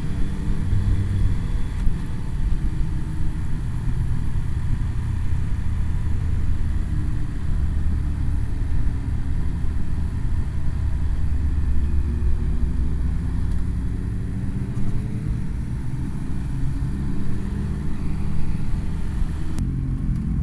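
Motorcycle engine running under way, its revs rising and falling, over a steady low wind and road rumble.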